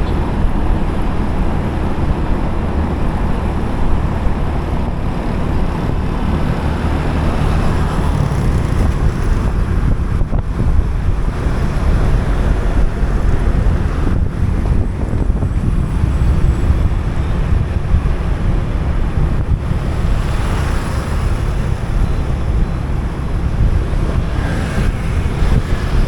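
Wind buffeting the microphone on a moving motorcycle, a loud, steady rumble with road and traffic noise beneath it.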